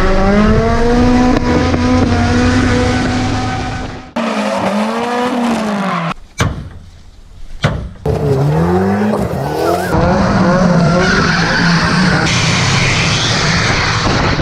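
Volvo 740 drift car engine revving up and down hard while its tyres slide on a dirt road. The sound changes abruptly a few times, with a short quieter gap about halfway through that is broken by a couple of sharp clicks.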